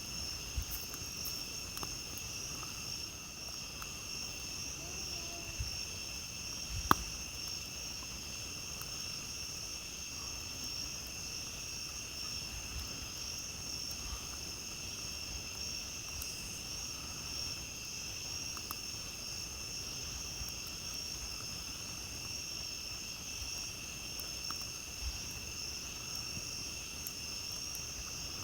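Night chorus of crickets: a steady high-pitched trilling at several pitches at once. It is dotted with faint crackles from a campfire, with one sharp pop about seven seconds in.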